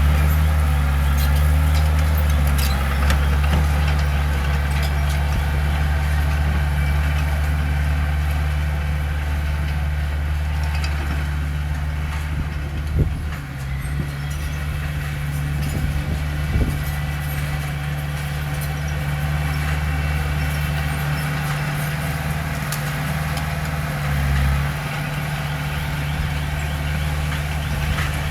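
Heavy diesel engine of earthmoving machinery running steadily, with a couple of short knocks in the middle.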